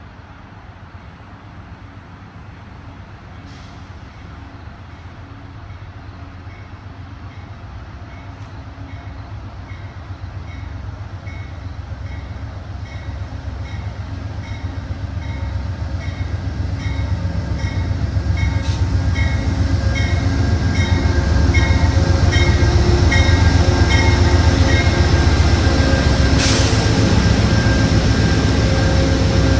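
Amtrak GE P42DC diesel locomotive and its train pulling into the station, the engine's drone and the rumble of the train growing steadily louder as it approaches, with a bell ringing about twice a second for most of the approach. A short hiss near the end.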